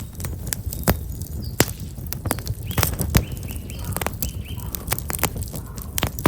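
Black locust firewood burning in an open fire, crackling with frequent sharp pops and snaps over a low rumble. Small birds chirp briefly in a short run of notes a little before the middle.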